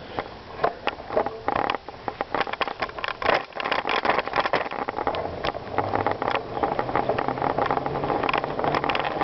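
Bicycle ridden over gravel: tyres crunching on loose stones and the bike rattling with many irregular clicks, with a low steady hum joining about halfway through.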